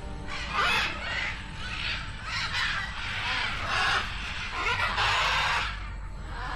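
Birds giving a run of harsh, raspy calls, one after another every half-second or so, stopping shortly before the end.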